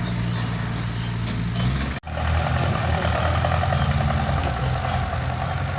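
Diesel dump truck engine running steadily with a low, even tone, with a brief break in the sound about two seconds in.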